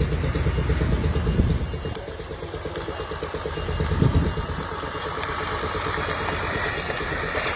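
A motor vehicle's engine running steadily, loudest in the first couple of seconds.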